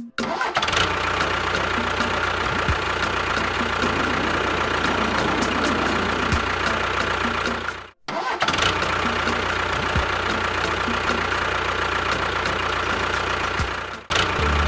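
A motor running steadily. It cuts out abruptly about 8 seconds in and picks up again right away, then cuts out once more near the end.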